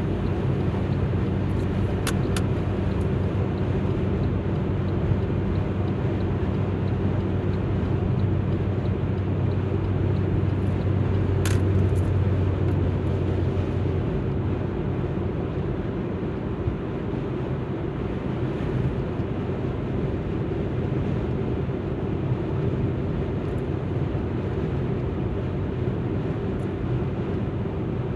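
Alfa Romeo MiTo driving on a wet road: a steady engine drone over tyre and road noise. The engine note drops and softens about halfway through.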